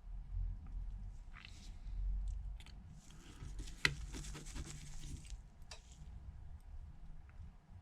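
Faint clicks and light scraping of a small precision screwdriver driving a tiny screw into the iPhone's earpiece speaker bracket, with one sharper tick about four seconds in.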